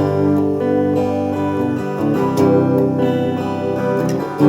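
Acoustic guitar strummed, with chords changing every second or so.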